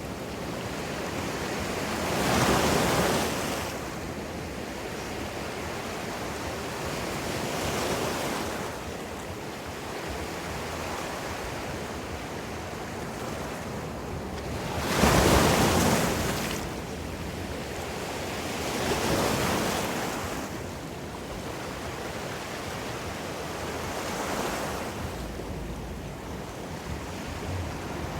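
Ocean waves breaking on the shore in slow surges, five swells about five to six seconds apart, the biggest about fifteen seconds in, over a steady wash of surf.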